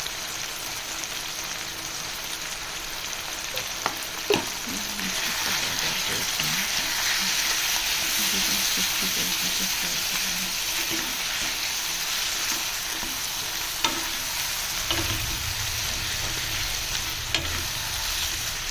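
Chicken sizzling in hot oil in a pot, just dusted with turmeric and red chilli powder, while it is stirred and fried (bhuna). The sizzle swells about five seconds in, and the spoon knocks against the pot a few times.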